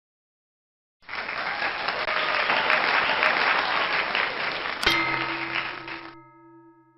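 Crowd applause starting about a second in and fading away, with a single musical chord struck about five seconds in and left ringing.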